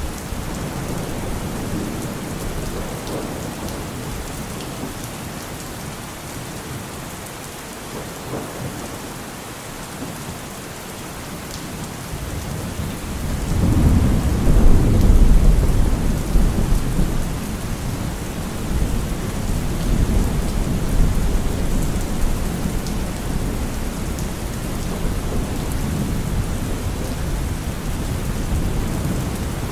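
Steady rain with rolling thunder: a long low rumble of thunder swells about halfway through and slowly fades back into the rain.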